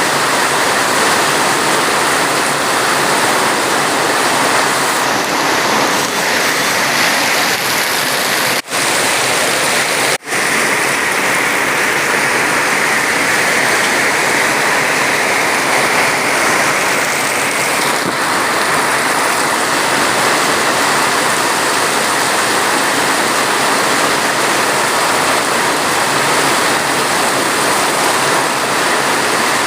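Steady, heavy rain falling in an even hiss. The sound cuts out for an instant twice, around nine and ten seconds in.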